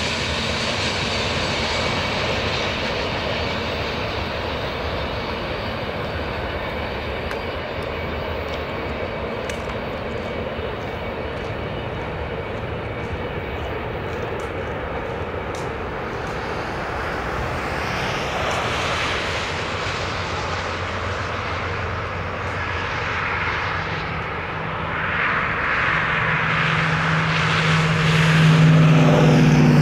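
A freight train's cars rolling away down the track, a steady rumbling roar that slowly fades with distance. Near the end a steady low hum comes in and grows to the loudest sound.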